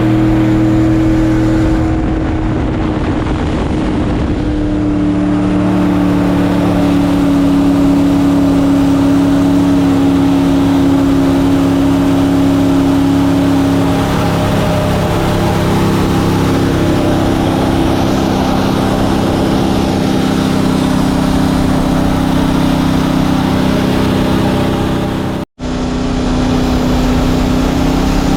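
Mini jet boat's engine running hard under way, its steady pitch dropping about two seconds in and shifting again partway through. The sound cuts out for an instant near the end, then carries on.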